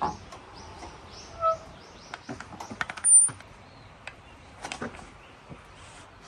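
A string of light clicks and knocks with two short ringing tones, one about a second and a half in and a louder, higher one about three seconds in.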